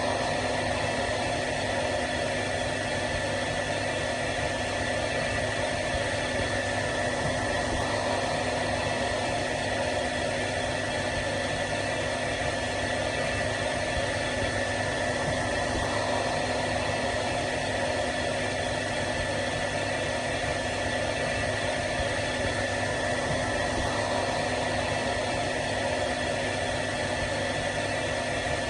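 Hair dryer running steadily: a constant rush of air with a steady motor hum and a higher whine mixed in, never changing in level or pitch.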